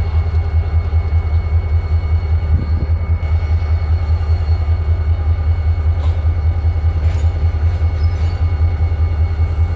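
Single diesel locomotive of the Missouri & Northern Arkansas Railroad running close by. Its deep rumble pulses about three or four times a second, with a faint steady squeal above it.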